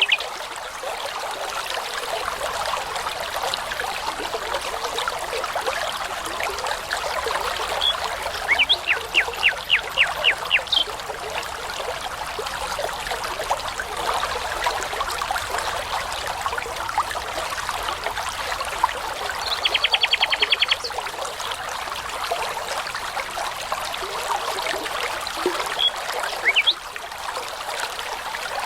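A babbling brook runs steadily while a songbird sings a few short phrases over it: a run of about eight repeated notes a third of the way in, a fast trill about two-thirds in, and a couple of brief notes near the end.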